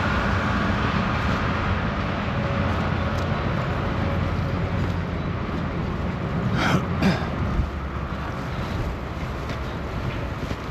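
A motor vehicle's engine rumbling past in the street, fading slowly, with two brief sharp squeaks about two-thirds of the way through.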